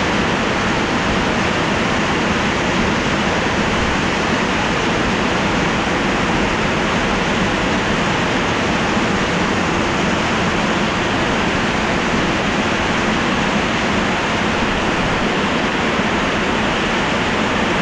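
Heavy tropical rain falling steadily, a dense, even downpour with no let-up.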